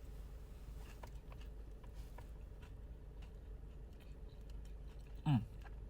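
Quiet eating sounds, small clicks and mouth noises, over a steady low hum, then near the end a short, loud vocal "mm" that falls in pitch as the food is tasted.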